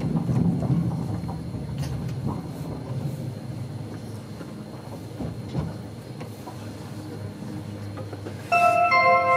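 Low, steady rumble of an Avanti West Coast train with a few faint clicks. About a second before the end, a public-address chime of two electronic notes begins, the signal that an on-board announcement is coming.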